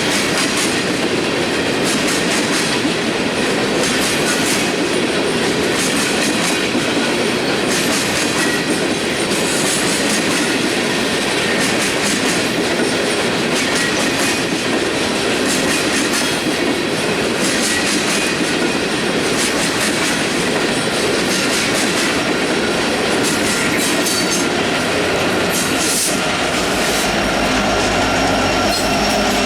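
Freight train cars rolling past at close range: a steady, loud clatter of wheels over rail joints with faint wheel squeal. A deeper rumble joins near the end.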